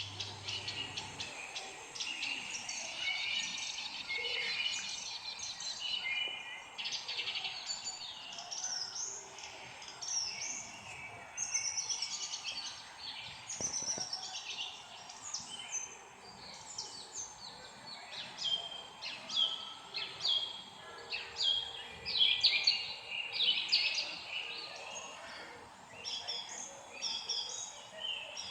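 Several small songbirds chirping and singing together: a dense mix of short, sharp notes and quick trills, some rising or falling, over a faint steady background hiss.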